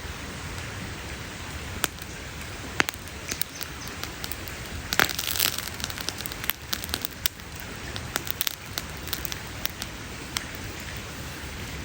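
Wood campfire crackling: scattered sharp pops and snaps over a steady hiss, with a brief flurry of pops about five seconds in.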